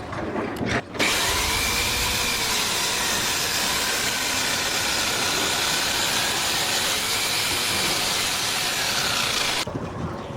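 Loud, steady machine noise with a strong hiss, starting abruptly about a second in and cutting off abruptly near the end.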